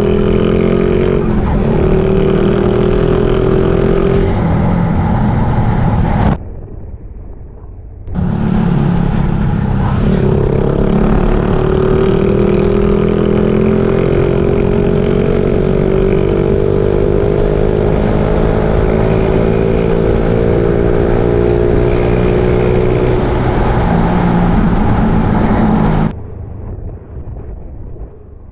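Suzuki Raider J 115 Fi motorcycle being ridden: its single-cylinder engine runs with a pitch that climbs slowly as it gathers speed, under heavy wind rush on the microphone. The wind noise drops away twice, for a couple of seconds about six seconds in and again near the end.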